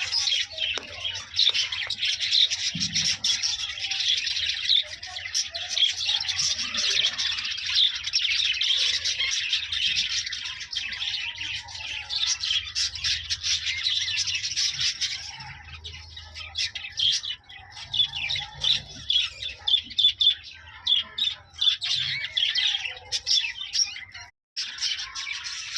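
A group of small pet parrots chirping and chattering, many rapid calls overlapping. The chatter is dense for the first half and thinner after, and the sound cuts out for a moment near the end.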